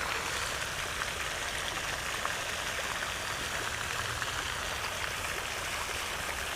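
Pond water fountain splashing steadily, an even rush of falling water.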